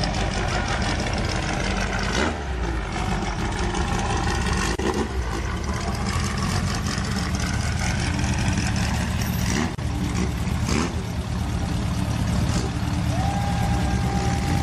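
Car engines running steadily, with some revving that rises and falls.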